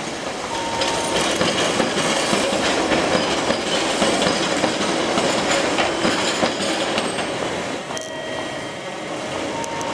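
Keihan Ishiyama-Sakamoto Line two-car electric train running over street-level track through a junction, its wheels clattering over the rail joints and points. It grows louder in the first seconds, is loudest through the middle and falls away near the end.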